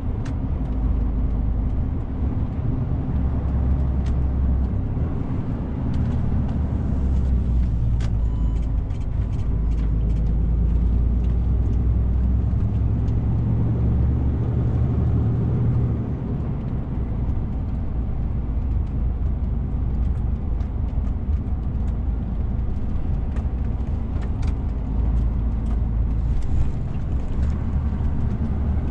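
DAF CF 450 truck's diesel engine running under way with road noise. Its low drone rises in pitch about 6 and 10 seconds in and drops about 16 seconds in as engine speed changes.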